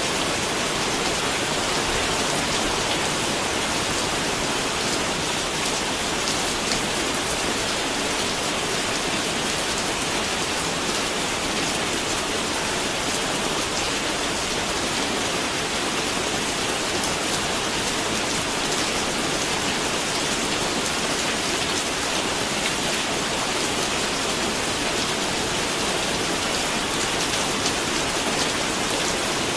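Steady rain falling, an even hiss of many drops hitting surfaces, with no let-up or change in intensity.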